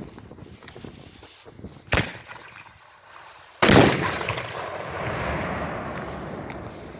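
A large firecracker exploding on a wooden board: one loud bang a little past halfway, with a long fading tail after it. A shorter, sharp crack comes about two seconds in.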